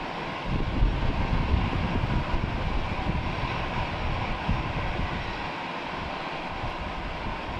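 Jet airliner's engines running as it passes: a low rumble that swells over the first seconds and eases after about five seconds, with a faint steady whine above it.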